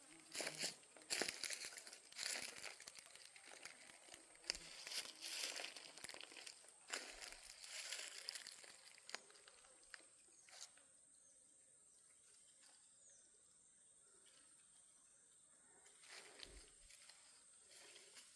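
Footsteps crunching through dry leaf litter, irregular and uneven, for about the first ten seconds, then stopping. Under them runs a faint, steady, high insect drone.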